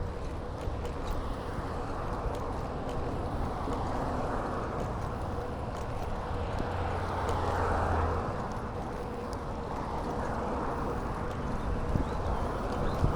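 Steady rushing noise of a bicycle ride: wind on the microphone and tyres rolling on the path, with a few small clicks and rattles. It swells a little about halfway through.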